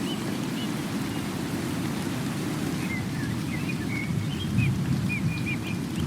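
Steady low rushing of rain-like outdoor noise, with small birds giving short, quick chirps over it, more of them in the second half.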